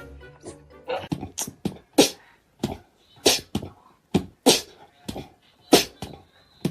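Rhythmic percussive beat: sharp clicky hits about twice a second, with a stronger hit every second or so.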